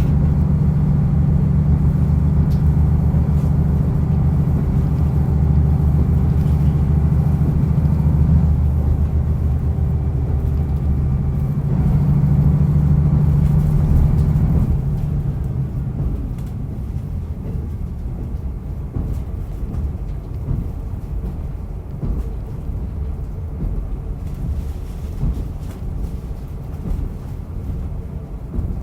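Diesel railcar on the move, heard from inside: the engine runs under power with a steady low drone. About halfway through the power is shut off, and the sound drops to a quieter running rumble of the train coasting along the rails.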